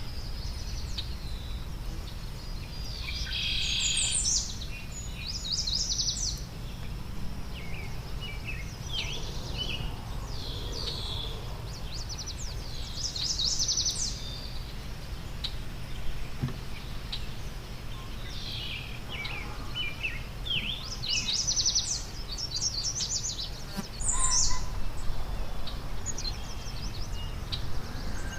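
Several songbirds singing and chirping: short, high, rapid trills repeated every few seconds, with scattered chirps between them, over a steady low rumble.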